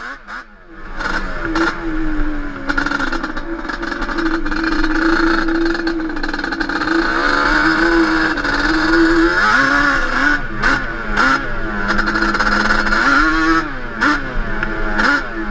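Yamaha Banshee 350's twin-cylinder two-stroke engine running under load on a ride. It holds a steady pitch for several seconds, then drops and rises quickly a few times in the second half as the throttle is worked.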